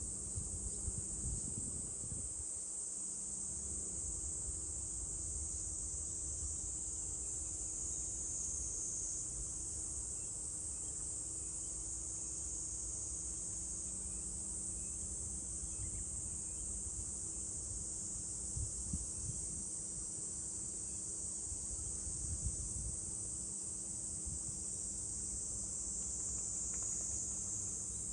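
Cicadas droning in one steady, high-pitched summer chorus, with a faint, uneven low rumble underneath.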